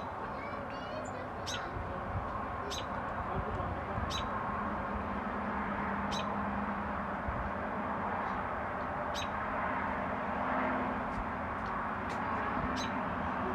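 A small bird calling with short, sharp, high chirps, one every second or few, with a brief twitter just after the start, over a steady background noise.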